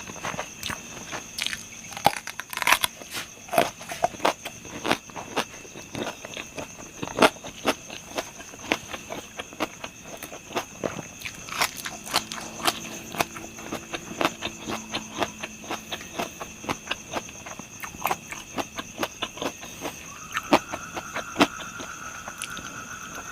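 A person chewing crunchy food close to the microphone: a long run of irregular crisp crunches and bites.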